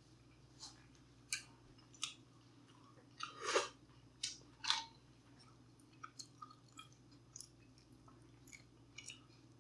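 A person eating close to the microphone: a series of short, crisp crunches and wet mouth clicks, loudest and longest about three and a half seconds in, then smaller clicks toward the end.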